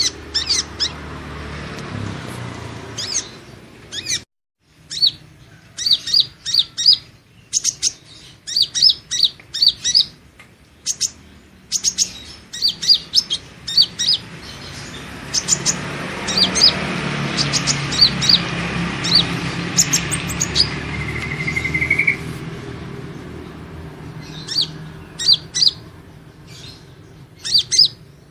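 Sunbird ('kolibri ninja') calls on a lure recording: quick runs of short, sharp, high chirps broken by brief pauses, over a background hiss that grows louder about midway and then fades.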